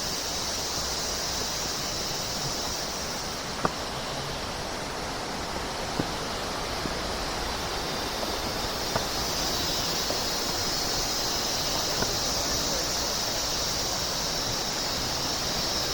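Steady rush of falling water from a stream or waterfall, a constant hiss with a few faint clicks.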